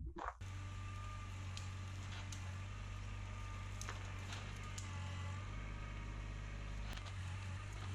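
Kubota L3200 tractor's diesel engine running at a steady speed, with a few faint clicks and rattles.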